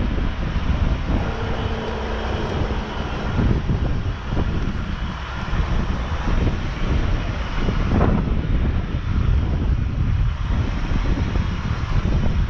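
Engine cooling fan of a four-wheel-drive running hard to cool the engine down, a steady rushing roar, with wind buffeting the microphone.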